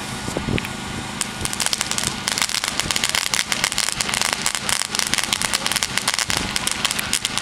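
Consumer firework fountain going off: a steady hiss that breaks, about a second and a half in, into dense, rapid crackling.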